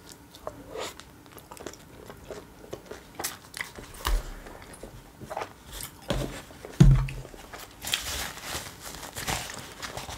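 Close-miked chewing of a chicken shawarma wrap, with wet mouth clicks and smacks throughout. A couple of dull knocks come from hands on the table partway through, and there is a brief rustle near the end.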